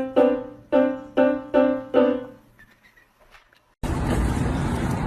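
A keyboard note struck over and over at the same pitch, about two a second, each ringing and fading. After a short pause, a loud steady rushing noise cuts in suddenly near the end.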